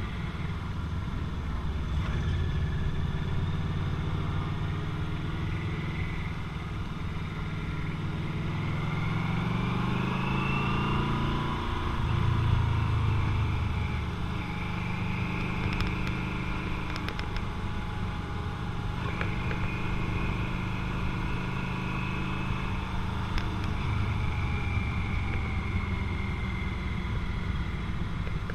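Motorcycle engine running under way. Its pitch climbs as it accelerates from about eight to twelve seconds in, then falls back and runs on steadily.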